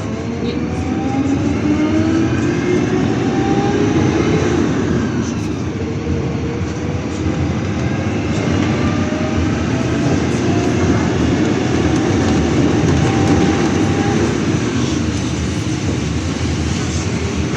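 City bus in motion, heard from inside the cabin: a steady road and engine rumble with a whine from the drivetrain that rises in pitch as the bus gathers speed, once in the first few seconds and again from about halfway through.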